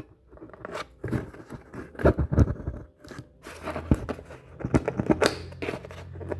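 Scraping and clicking of a loudspeaker voice coil being forced into and out of the magnet gap in irregular strokes; the fit is tight because the coil has shrunk from overheating. A steady low hum comes in about halfway.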